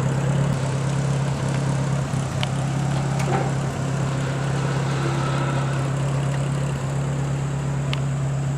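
Ford 600 tractor's four-cylinder gasoline engine running at a steady idle, just after catching on starting.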